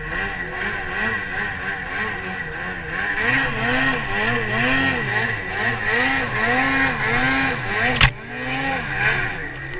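Ski-Doo Summit 850 snowmobile's two-stroke engine revving up and down over and over, its pitch rising and falling about every half second. A sharp click comes about eight seconds in.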